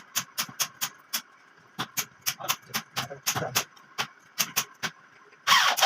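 Quick runs of light hammer taps, several a second with short pauses between, as wire mesh is nailed to a wooden cage frame. A louder, longer scrape comes near the end.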